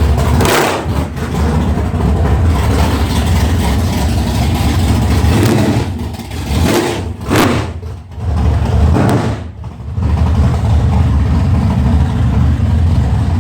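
Race car engine running loud just after its first startup, revved up and down a few times between about six and ten seconds in.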